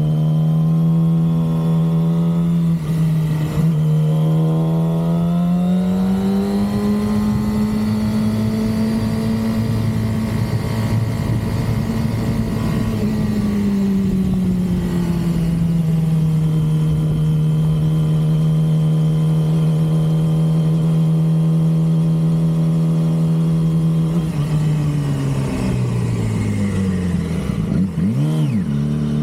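2006 Yamaha R6 inline-four engine running under way, its pitch rising and falling slowly with speed. Near the end the pitch drops steeply, then picks up again.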